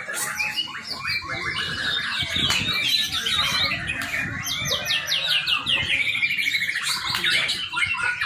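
Young white-rumped shama singing: rapid runs of short repeated notes, changing from one phrase to the next without pause.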